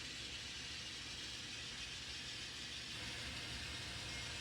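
N scale model train running on the layout: a steady faint motor hum with an even hiss.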